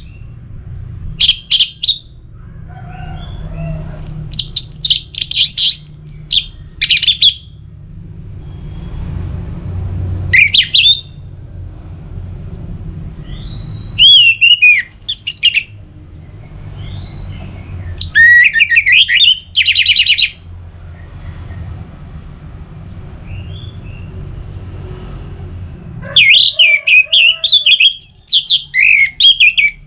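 Orange-headed thrush singing in repeated bursts of fast, varied whistled phrases, with pauses of a few seconds between them and a faint low rumble underneath.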